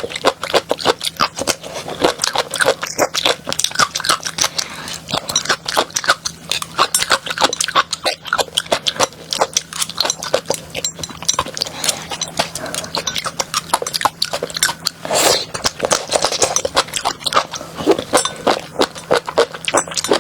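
Close-miked chewing of crunchy chili crab pieces: a dense, irregular run of crisp crunches and crackles, several a second.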